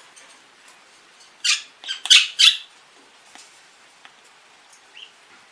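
Pet parrot giving three short, harsh squawks in quick succession about a second and a half in.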